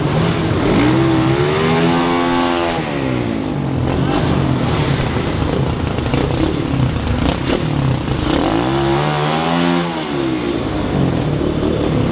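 Pit bike engines running on a track, with a steady drone. Twice, about two seconds in and again around nine seconds, a bike's engine note rises and falls as it revs and passes close.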